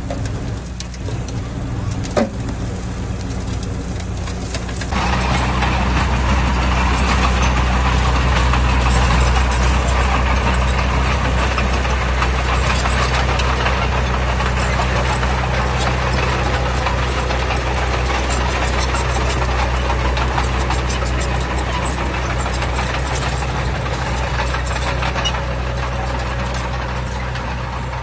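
Heavy diesel engine of earthmoving machinery running low, then at about five seconds it opens up and runs hard under load, with a dense clattering noise that holds steady. A single sharp knock sounds about two seconds in.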